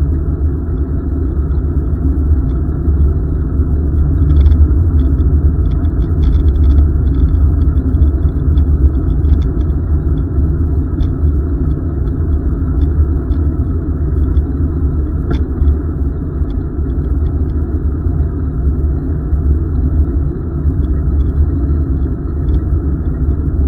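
Steady low rumble of wind and riding noise on the microphone of a camera carried on a moving bicycle, with faint light ticks above it.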